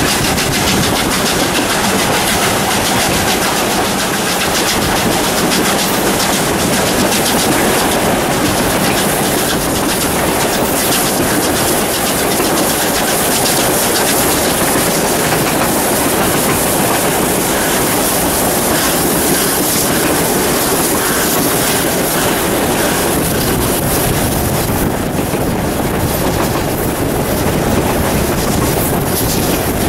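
A steam-hauled train running on the track, its wheels clattering over the rail joints, with a steady loud rush of noise throughout.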